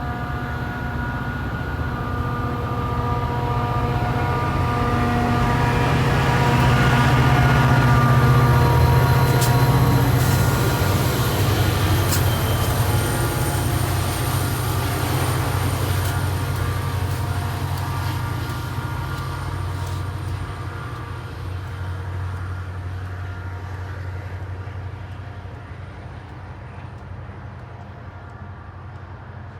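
Diesel-hauled train passing: engine drone and rolling wheels build to their loudest a quarter of the way in, with a couple of sharp clicks, then fade steadily as it moves away.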